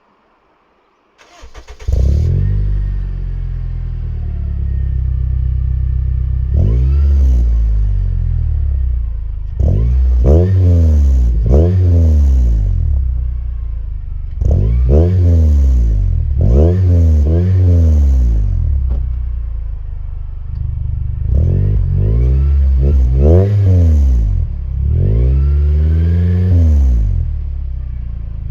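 Honda Odyssey RB2's 2.4-litre four-cylinder engine breathing through a Kakimoto aftermarket muffler: it starts about a second and a half in, idles, then is blipped about ten times, each rev rising and falling in pitch.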